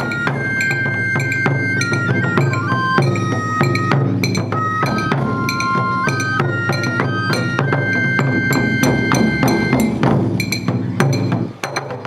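Japanese taiko ensemble drumming: rapid, dense strokes with sharp wooden clicks, under a high flute melody of held notes that step up and down. The flute stops about ten seconds in while the drums carry on.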